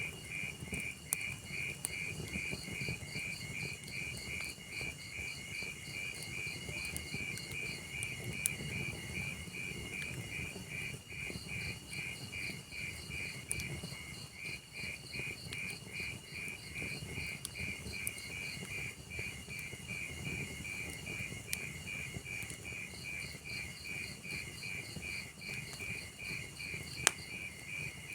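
Crickets chirping steadily, about three to four chirps a second, with a second higher-pitched cricket joining at times, over the low hiss of a burning log fire with scattered sharp crackles and one louder pop near the end.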